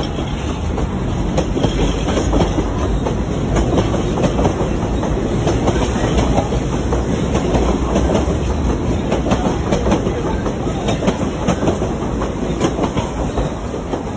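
CNR-built electric commuter train running past close by, its wheels clattering over the rails in a dense run of clicks over a steady rumble. The noise eases a little near the end as the last car goes by.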